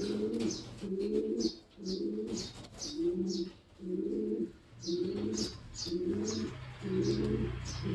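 Domestic racing pigeon cooing over and over, a low call repeated about once a second, with faint high chirps from other birds above it.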